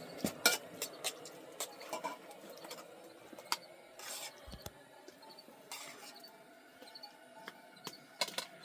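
Scattered light clicks and clinks of dishes and utensils being handled, with two short scraping rustles in the middle.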